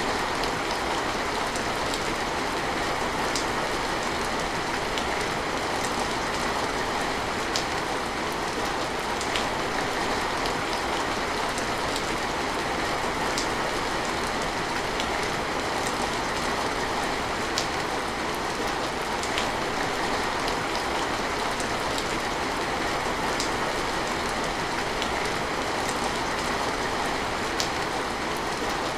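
Steady heavy rain as an even rushing hiss, with scattered sharper drops ticking through it.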